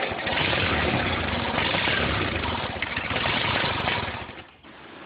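Allis-Chalmers B tractor's four-cylinder gasoline engine running steadily, then dropping away about four and a half seconds in.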